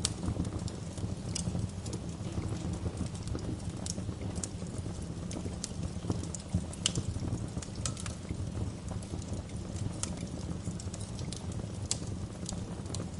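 Wood fire crackling, with frequent sharp pops and snaps over a low, steady rumble.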